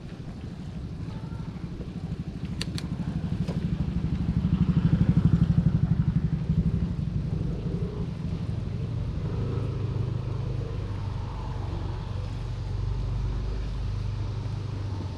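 Motorcycle engine approaching and passing close by, loudest about five to six seconds in, then easing off. Two sharp clicks sound about two and a half seconds in.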